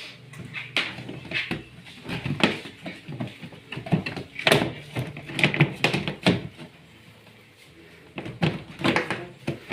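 Irregular knocks and clattering on the plastic body of a twin-tub washing machine, over a faint low hum that stops about seven seconds in. More knocks follow near the end.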